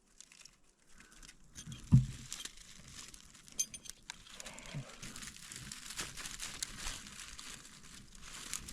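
Freshly lit birch bark tinder burning, crackling with many small pops that grow denser as the flames take hold. A single dull thump about two seconds in.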